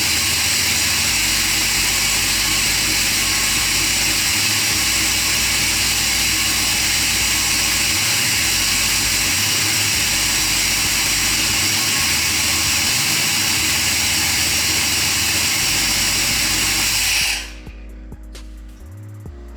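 Project car's engine running steadily, loud and close, with background music underneath; the engine sound stops abruptly about 17 seconds in, leaving only the music.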